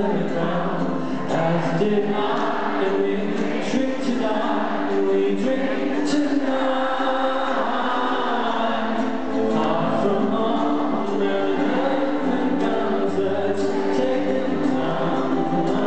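A live band playing with singing: held chords over steady percussion, with voices singing along.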